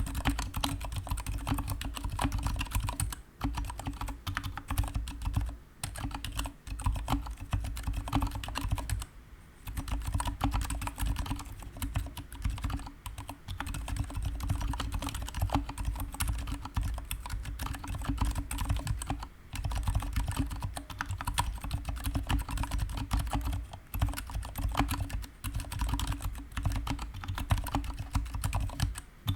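Continuous fast typing on a GK61 mechanical keyboard with stock Gateron silent brown switches and PBT pudding keycaps: a dense run of key strokes, with short pauses about 9 and 19 seconds in.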